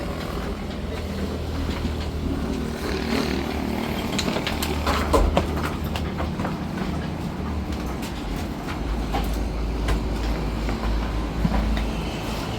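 Kia truck's engine running steadily under way, with frequent rattles and knocks from the truck body and load.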